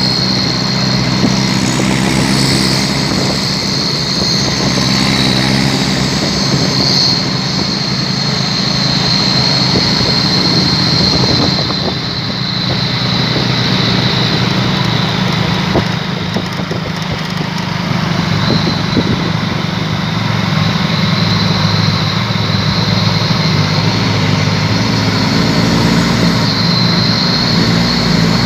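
Truck engines with custom 'chung Takalar' exhausts running, a steady, loud, deep exhaust note (the 'dobol dobol' sound), with a thin high-pitched whine over it.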